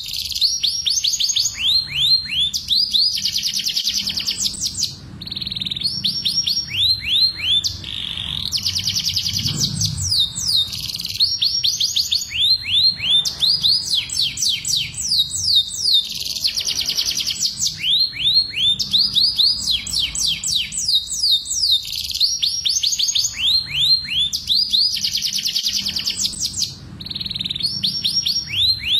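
Domestic canaries singing a breeding-season song: long, fast trills and rolls of rapidly repeated sweeping notes, changing from one tour to the next every few seconds with only brief pauses.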